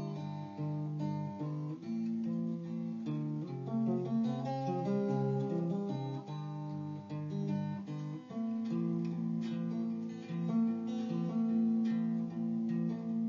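Guitar playing an instrumental passage with no singing: picked notes and strummed chords in a steady flow.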